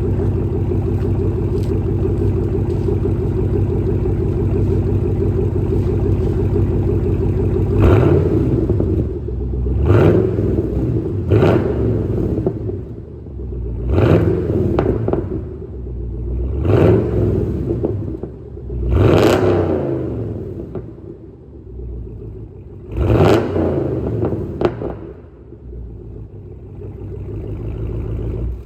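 2015 Camaro SS 6.2-litre V8 running through a Borla ATAK exhaust with no mid-pipe catalytic converter. It idles steadily for about eight seconds, then is revved in about seven quick blips that rise and fall back to idle.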